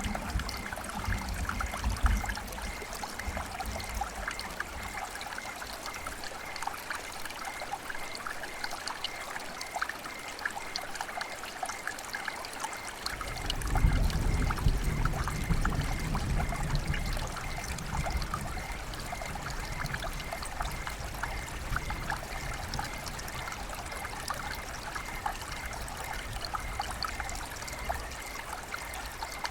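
River water flowing and trickling, a steady babbling made of many small splashes. A deeper low rumble in the water sound comes in about halfway through.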